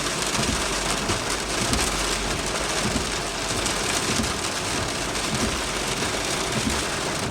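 Steady rain during a thunderstorm: an even, constant hiss of drops, with a low steady rumble underneath.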